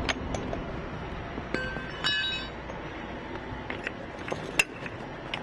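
Metal fittings clinking and knocking as a HUMAT valve is fitted to a fire hydrant's 4-inch steamer connection, with a short metallic ringing clank about two seconds in.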